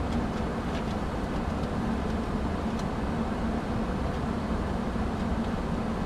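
Steady cockpit noise of an Airbus A330 in flight on approach: airflow and engine noise with a low, even hum, and a few faint ticks.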